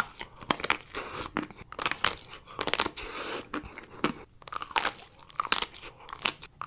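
Close-miked crunching and chewing of Milka chocolate: an irregular run of sharp crunches as it is bitten and chewed.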